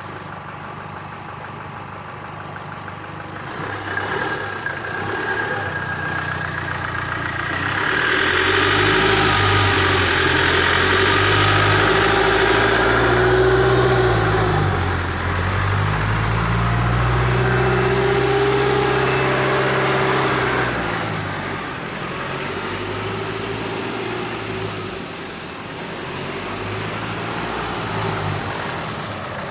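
Rebuilt Duramax 2.8 turbo-diesel four-cylinder idling, then revved up and held at higher speed for about twelve seconds with a brief dip in the middle, before settling back to idle. It is running freshly rebuilt, after final assembly.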